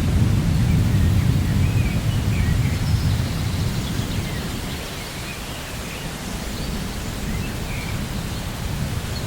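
Rainforest ambience: a low thunder rumble that fades away over the first half and starts building again near the end, under a steady hiss, with faint scattered bird chirps.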